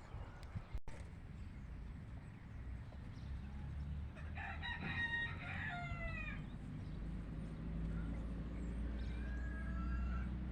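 A rooster crowing once, a call of about two seconds around the middle, with a fainter short call near the end. A low steady rumble sits underneath.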